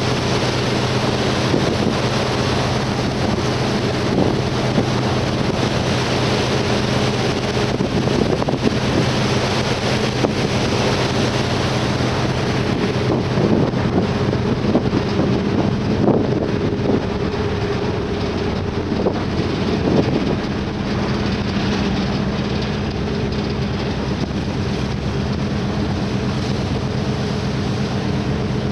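A ship's engines drone with a steady low hum as an icebreaker under way, with wind buffeting the microphone and water rushing past the hull.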